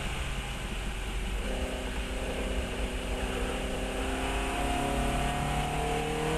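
Fiat 132's engine running under load, holding steady revs and then climbing slowly in pitch over the last couple of seconds, over a steady rush of wind and road noise.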